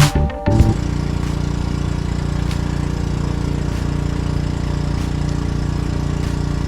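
Background music cuts off under a second in, giving way to an engine running steadily at idle, with faint regular ticks.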